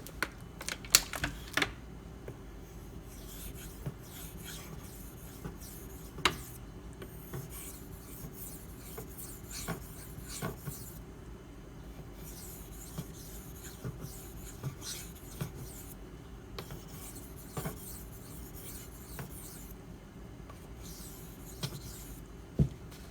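Maxamet steel blade of a Spyderco Manix 2 stroked across a slurried 1000-grit Nano Hone whetstone: a scraping hiss in five runs of a few seconds each, with short pauses and a few small clicks between. The stone feels super slick and is only burnishing and polishing the bevel, not cutting the steel.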